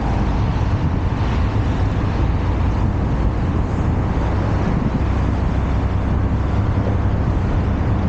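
Steady low rumble of wind buffeting the microphone of a moving bicycle, with no distinct events.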